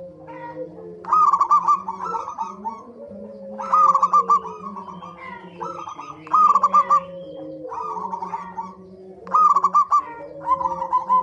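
Zebra dove (perkutut) calling: a quick run of bouncing, stuttering coo notes, repeated four times about every three seconds, over fainter, lower steady tones.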